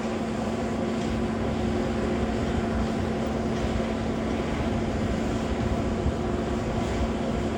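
Boeing 737 airliner's jet engines running: a steady drone with a constant hum over a low rumble and hiss.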